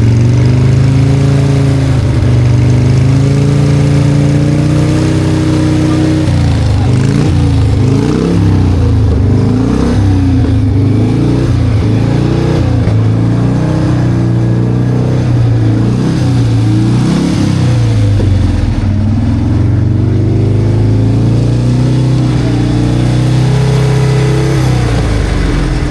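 A vintage Japanese motorcycle engine running steadily, then revved up and down again and again for about ten seconds, then settling back to a steady run.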